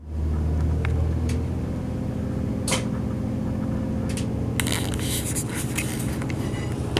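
Class 185 diesel multiple unit's underfloor Cummins diesel engine running with a steady low hum, heard inside the carriage. Scattered clicks and rattles come through, more of them in the second half.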